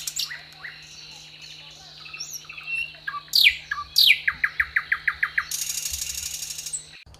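Woodpecker calling: sharp, quickly falling call notes and a quick series of short chattering notes, ending in a fast rattle.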